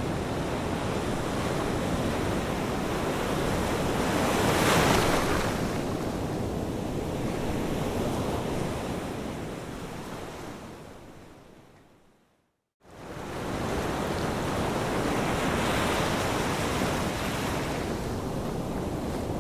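Ocean surf washing in steadily, one wave breaking loudest about five seconds in. Just past the middle the sound fades out to a moment of silence and then quickly fades back in.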